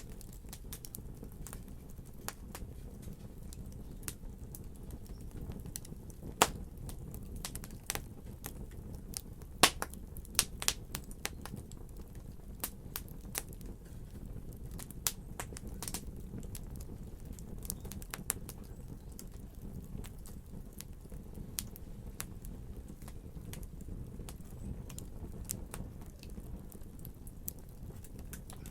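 Wood fire crackling: a steady low rumble of burning with irregular sharp pops and snaps, a cluster of the loudest pops about six to eleven seconds in.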